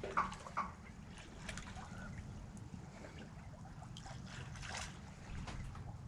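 Water splashing and trickling along the hull of a sailing yacht under way, with a few louder splashes in the first second, over a steady low rumble.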